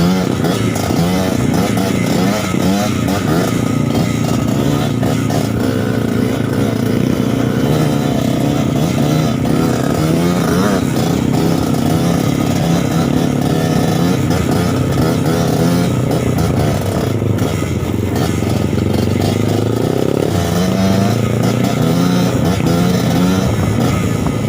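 Suzuki TS 125 trail bike's two-stroke single-cylinder engine running under changing throttle, its pitch rising and falling, with a longer rise in revs about twenty seconds in.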